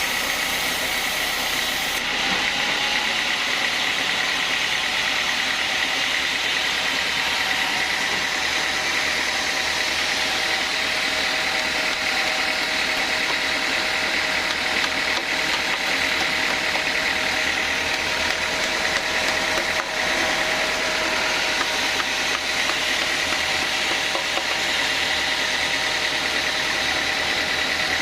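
Sawmill band saw running with a steady machine noise and a constant high whine.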